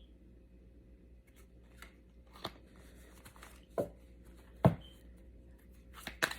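Tarot cards being handled: three separate sharp card snaps or taps, then a rapid run of clicks as the deck is shuffled, starting near the end.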